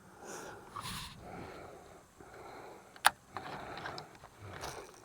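Faint rustling and handling sounds, with one sharp click about three seconds in and a few lighter ticks after it.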